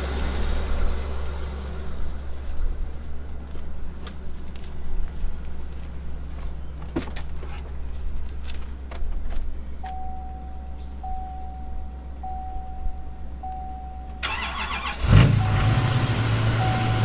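Plow truck's engine idling steadily with a few light clicks; partway through, a chime beeps about once a second several times, and near the end a louder mechanical sound starts up over the idle.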